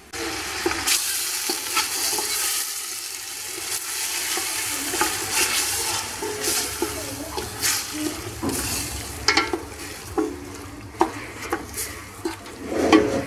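Chicken pieces and chopped onion frying in oil in a stainless steel pot, sizzling steadily. A wooden spoon stirs them, scraping and knocking against the pot in the second half.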